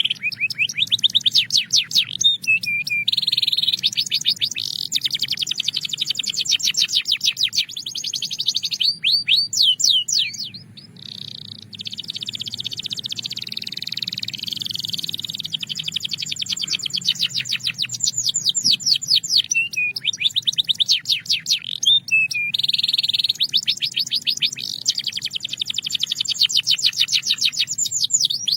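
Belgian canary singing: long rapid rolls of repeated sweeping notes, one after another, with a short break about ten seconds in.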